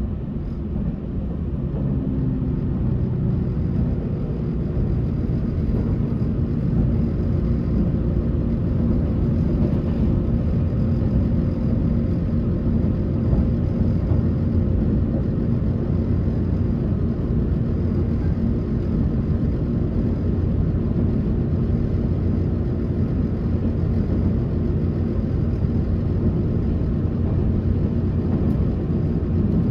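Passenger train running at speed: a steady rumble of the wheels on the rails with a low machinery hum. The hum's tones finish shifting in pitch in the first second or two, then hold steady.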